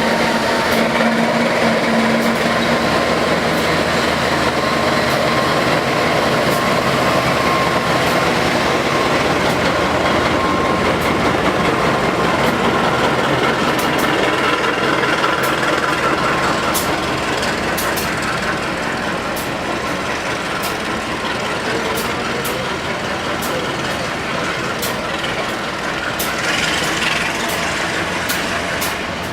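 Passenger train running on the rails: a steady rolling rumble and rattle with many short sharp clicks. It eases slightly after about seventeen seconds.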